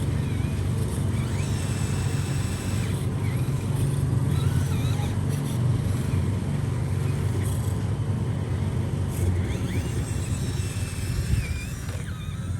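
RC truck running off-road: a steady low rumble with a high motor whine that rises and falls with the throttle.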